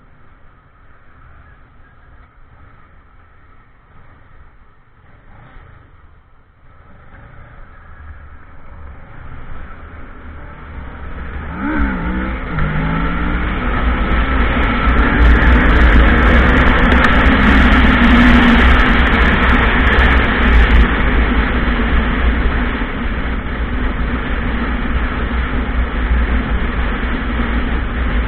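Motorcycle pulling away and gathering speed: engine note climbing and changing pitch about halfway through, with wind noise building over the microphone until it is loud and steady.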